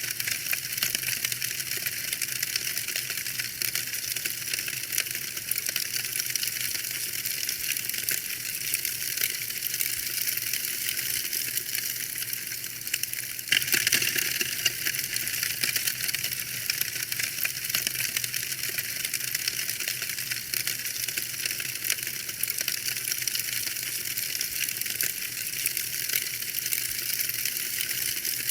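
Wood fire crackling in a fireplace: a dense, irregular stream of small pops and snaps over a steady hiss, with a brief louder patch of crackling about halfway through.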